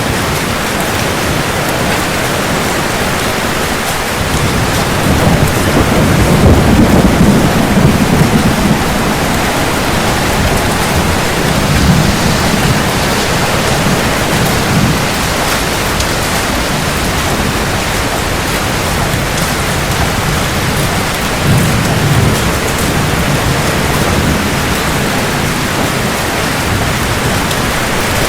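Steady heavy rain hissing, with rolling thunder rumbling low several times: a long loud roll about five seconds in, another around twelve seconds, and a shorter one past twenty seconds.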